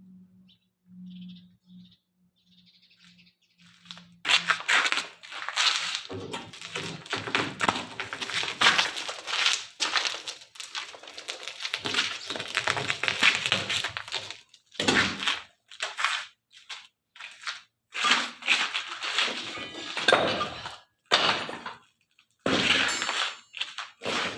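Demolition rubble crashing and clattering in repeated irregular bursts, starting about four seconds in after a faint low hum.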